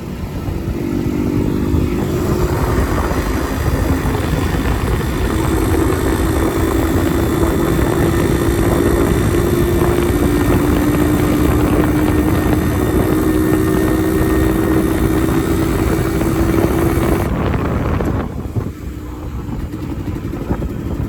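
Yamaha RX100's 98 cc two-stroke single-cylinder engine running, with a crisp exhaust note. The note holds steady, then shifts to a new pitch several times, and the engine sound drops away near the end.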